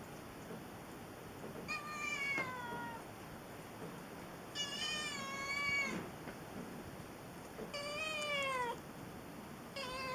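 Domestic cat meowing four times, a few seconds apart, each meow about a second long and falling in pitch; the last starts near the end.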